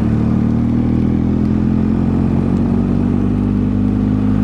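Motorcycle under way at a steady speed: a BMW GS boxer-twin engine running at a constant pitch, with wind and road noise over it.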